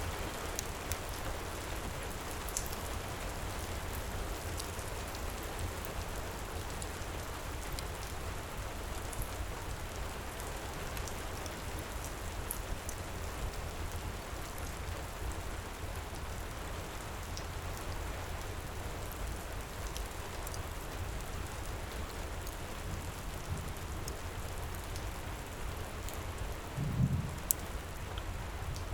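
Heavy rain pouring steadily, with scattered faint crackles from a fireplace. Near the end there is a single low thump.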